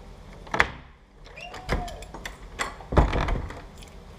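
Several sharp knocks and thumps, the loudest about three seconds in, with a short tone that rises and falls near the middle.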